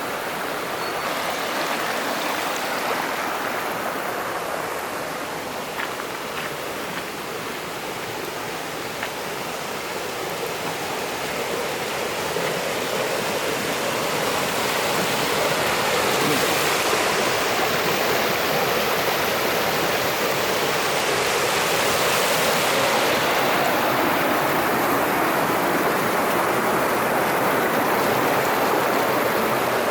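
Mountain stream flowing over rocks, a steady rush of water that grows somewhat louder about halfway through.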